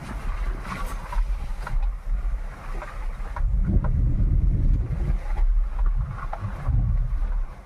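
Car being driven: a steady low rumble of engine and road noise, with wind buffeting the microphone.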